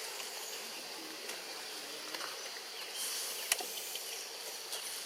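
Outdoor background noise: a steady high hiss, with a few faint short squeaks and one sharp click about three and a half seconds in.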